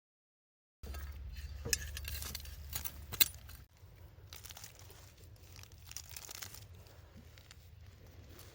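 Light clinks and knocks over a low rumble, the sharpest about three seconds in; the rumble drops away abruptly just before four seconds in, leaving a quieter background with a few faint ticks.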